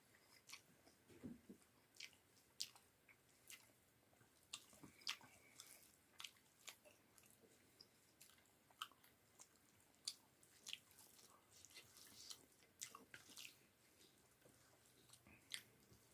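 A person chewing a meal close to the microphone: faint, irregular wet mouth clicks and smacks, a few every second.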